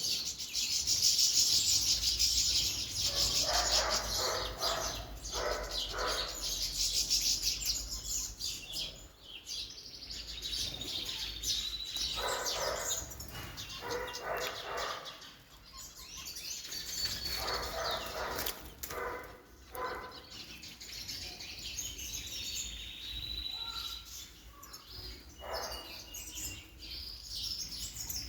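Small cage birds chirping and twittering while bathing, with repeated wing flutters and splashes in the water.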